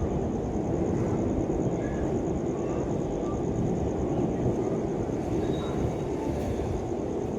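Express passenger train running past on the track: a steady, unbroken rumble.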